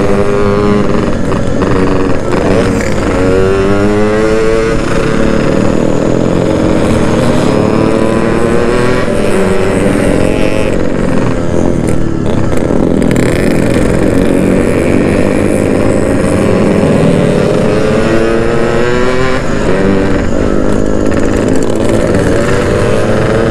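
Yamaha RX-King's two-stroke single-cylinder engine riding along, its pitch climbing as it accelerates and dropping at each shift, several times over a continuous rush of wind and road noise.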